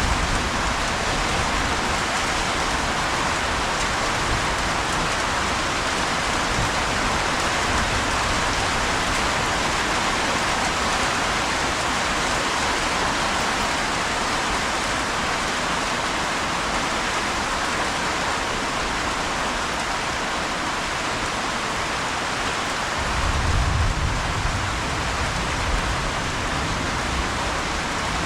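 Steady rain falling, an even hiss of drops on hard surfaces; about two-thirds of the way through, a low rumble rises briefly under it.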